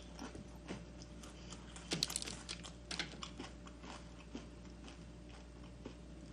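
Close-up chewing of crunchy fried chicken: crisp crunches, thickest about two to three and a half seconds in, then fewer, softer chews.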